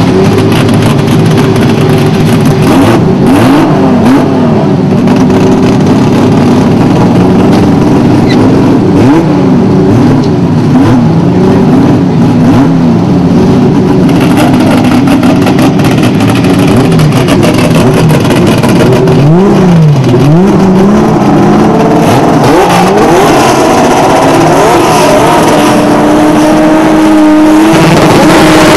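Drag-racing car engine running loudly at idle, with short throttle blips that send the pitch up and straight back down every few seconds. Near the end it settles into a steadier, higher-pitched drone.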